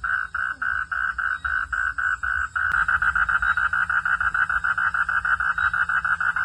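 Frogs calling in a steady, rapid train of short pulsed notes, about six a second. A sharp click comes a little before the middle, and after it the calling is louder and faster, about ten pulses a second.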